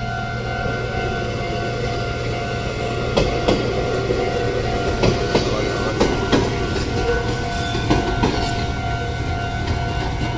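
Red Meitetsu electric commuter train passing close by over a level crossing, its wheels clicking over the rail joints from about three seconds in. The crossing's warning bell rings steadily throughout.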